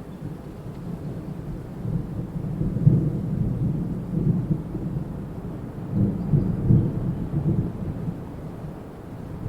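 Wind gusting through trees, a low rumbling rush that swells and eases, loudest about three seconds in and again around six to seven seconds.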